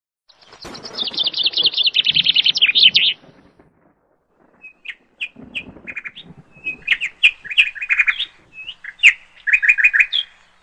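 Birds chattering in rapid runs of sharp, high chirps: one long fast trill over the first few seconds, then a string of shorter chirp bursts.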